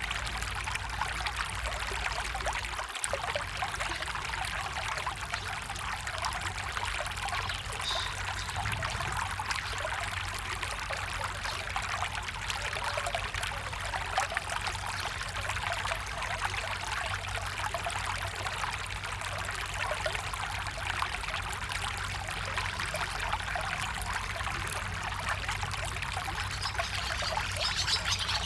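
Water of a small stream trickling and splashing steadily.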